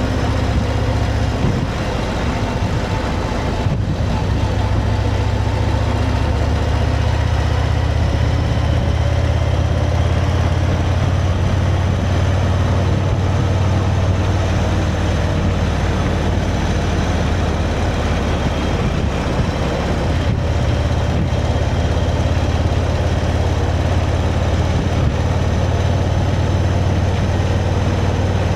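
Motorcycle engine running at a steady pace while riding, with a strong low hum and wind and road noise on a helmet-mounted microphone.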